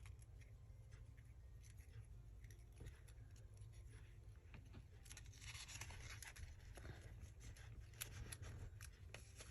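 Near silence with faint handling of paper: soft rustling and a few light taps, picking up a little in the second half.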